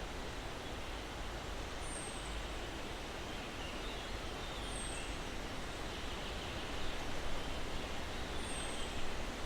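Steady breeze noise, as of wind through pine branches, swelling a little near the end. A bird gives a short, high chirp falling in pitch three times, about three seconds apart.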